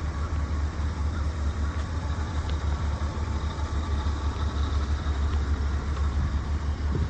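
A 2003 Chevrolet Silverado 3500 dump truck's 6.0 V8 engine idling steadily, a low even rumble.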